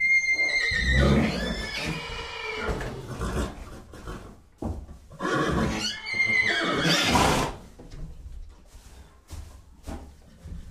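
Horse whinnying twice: a high neigh right at the start that falls in pitch over about two seconds, and a second one a little past the middle, followed by a few quieter short sounds.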